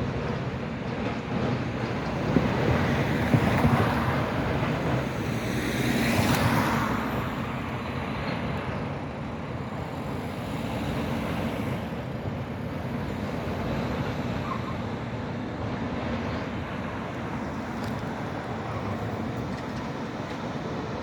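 Steady street-traffic noise, with a few clunks a couple of seconds in and a vehicle passing close by about six seconds in.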